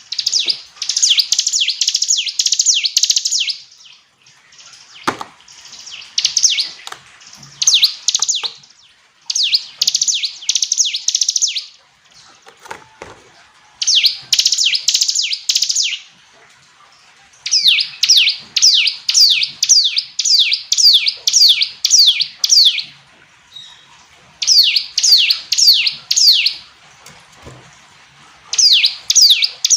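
A ciblek gunung (a prinia) singing in repeated phrases of high, sharp chirps. Each phrase is a quick run of downward-sweeping notes, about two to three a second, with brief pauses between phrases.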